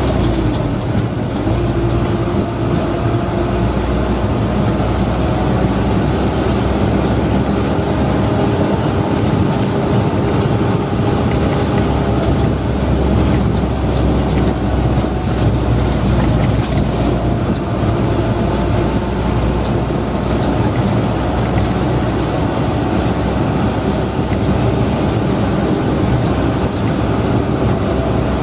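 Dump truck engine running steadily under way, with a drivetrain whine whose pitch drifts slowly up and down.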